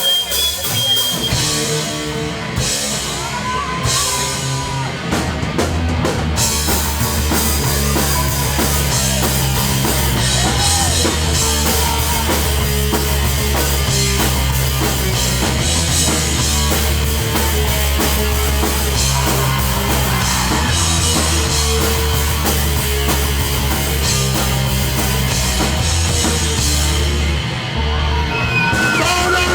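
Live hardcore punk band playing loud and without a break: pounding drum kit, bass and guitars.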